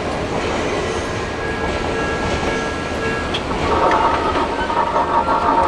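Electric commuter train running away over the rails, a steady rumble with clicking of the wheels on the track. About halfway through, a steady ringing tone around one pitch comes in and becomes the loudest sound.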